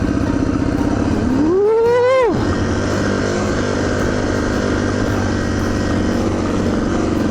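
Yamaha TTR230's single-cylinder four-stroke engine running. About a second in it revs up once, then drops back abruptly to an uneven lower running. The bike is running poorly, not firing all the way under throttle, which the owner puts down to a weak battery.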